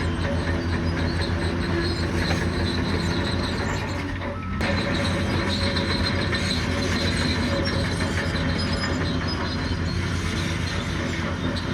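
Bulldozer's diesel engine running steadily under load, with the steel crawler tracks clanking and squealing as it moves; the sound dips briefly about four seconds in.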